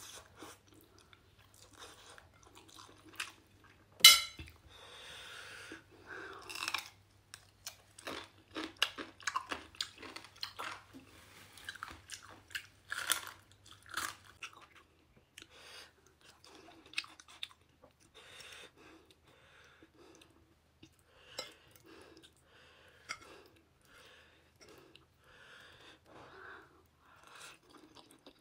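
A person chewing and biting into mouthfuls of spicy noodles and vegetable salad, with crunchy bites among the wet chewing. One sharp, loud click comes about four seconds in.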